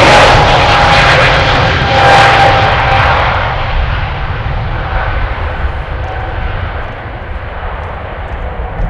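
Airbus A320neo's turbofan engines at takeoff thrust: loudest at the start with a couple of steady tones over the jet rush and a low rumble, fading as the airliner climbs away.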